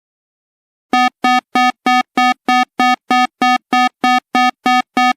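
Emergency alert tone: a fast, even string of identical short electronic beeps, all at one pitch, about three a second, starting about a second in after silence.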